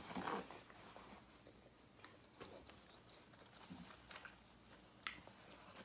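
Faint chewing and small mouth sounds, with a few soft clicks spread through an otherwise very quiet stretch.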